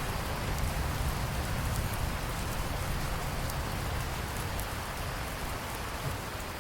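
Steady rain falling, with faint individual drop ticks over a dense hiss and a low rumble underneath that fades near the end.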